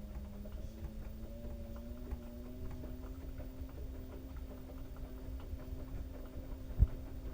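LG washing machine running with a load of wet towels: a steady motor hum that rises slowly in pitch as the drum speeds up, over a scatter of small clicks and knocks. One sharp, loud thump comes near the end.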